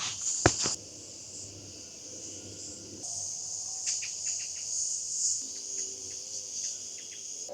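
Steady high-pitched trilling of an insect chorus, with a few sharp clicks in the first second.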